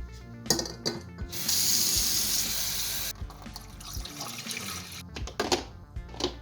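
Water running from a tap for about two seconds, amid a few clicks and knocks of handling.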